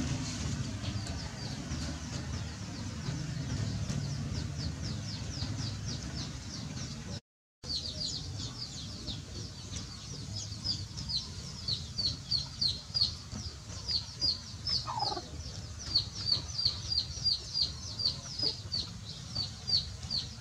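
A bird peeping over and over, short high falling notes at about three a second, starting after a brief cut-out about seven seconds in. Before that, a low rumble with no clear calls.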